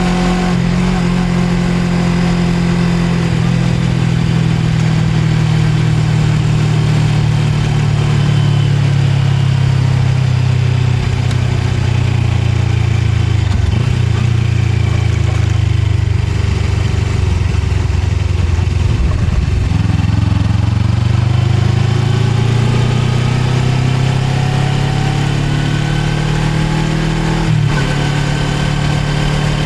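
Suzuki GSX250R's parallel-twin engine heard from on board while riding: the engine note drops after about three seconds, stays low through the middle, then climbs again and jumps up suddenly near the end, with steady road and wind noise underneath.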